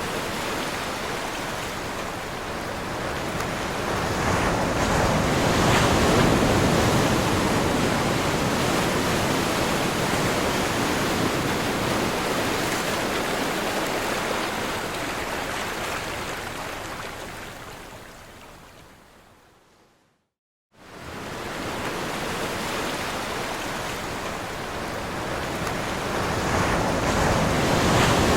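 Ocean waves breaking and washing in a steady rush that swells to a peak about six seconds in. The sound fades away to silence around twenty seconds in, then starts again abruptly under a second later.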